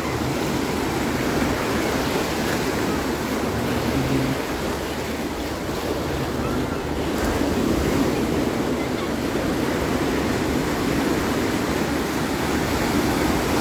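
Sea waves washing onto the shore in a steady surf, rising and falling gently in loudness.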